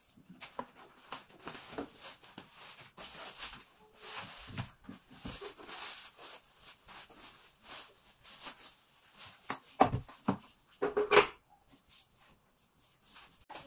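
Cardboard and plastic packaging rustling and parts knocking as a boxed floor fan is unpacked, irregular handling noise with two louder bursts about ten and eleven seconds in.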